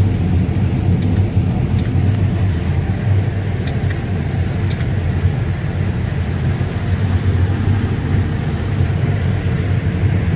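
Combine harvester running steadily in corn, heard from inside the cab: an even, loud low machine hum.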